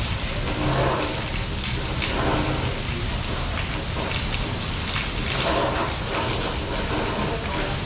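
Steady rain falling, a constant wash of noise with many separate drop hits sounding through it.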